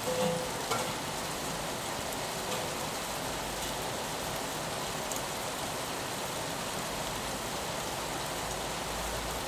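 Steady rain falling on a window, an even hiss with a few sharper drop ticks in the first second.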